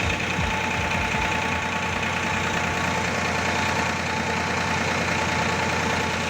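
Diesel tractor engine running steadily, with a few low thumps in the first second.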